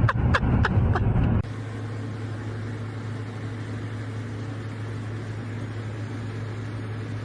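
A few sharp clicks over a loud low rumble, cut off abruptly about a second and a half in, followed by a steady low hum with a faint even hiss.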